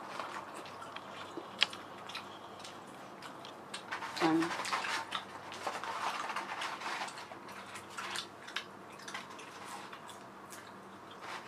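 A person chewing fast food close to the microphone, with scattered small clicks and crunches from the mouth and food. There is a short hum from the eater about four seconds in.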